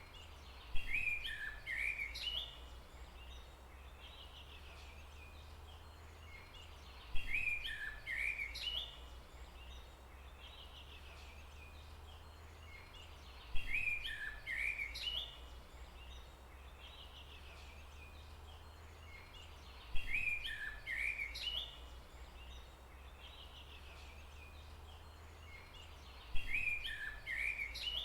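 A short bird call phrase, each beginning with a sharp click, repeats at even intervals about every six and a half seconds, five times in all, as a looped forest-sounds track. A steady low hum runs underneath.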